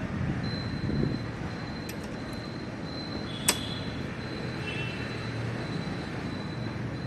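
Service-garage background noise with a thin, steady high whine, a few faint clicks, and one sharp metallic click about three and a half seconds in.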